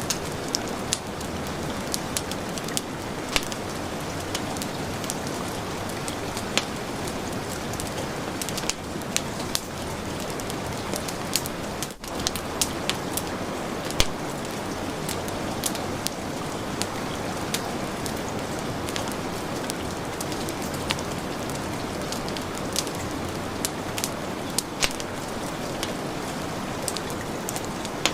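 Heavy rain making a steady hiss, mixed with a wood fire whose frequent sharp crackles and pops come at irregular moments. The sound drops out for an instant about twelve seconds in.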